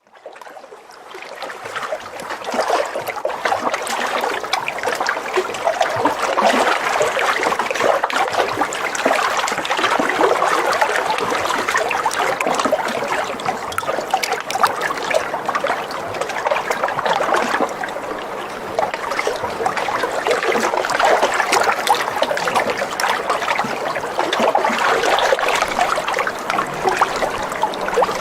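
Continuous trickling and splashing of water, a dense crackle that fades in over the first couple of seconds and then stays steady.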